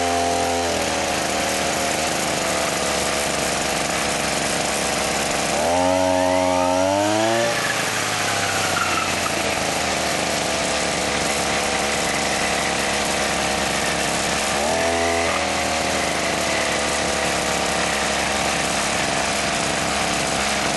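Kubota brush cutter's small engine running steadily after starting, brought back to life after a seized-piston repair. Its revs rise and fall about six seconds in, with a second short rev around fifteen seconds.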